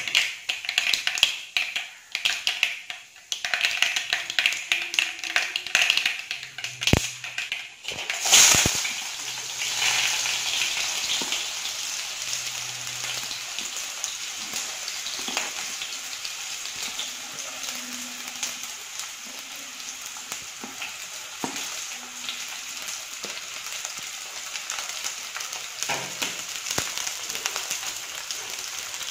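Mustard seeds popping and crackling in hot oil for about eight seconds. Then sliced shallots go into the oil with a sudden loud sizzle, and a steady frying hiss follows as the shallots, ginger, garlic and green chillies sauté.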